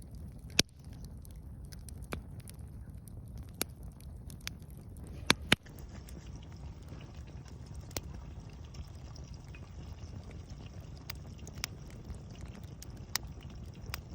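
Wood fire crackling: scattered sharp pops at irregular intervals, the loudest two close together about five seconds in, over a low steady rumble.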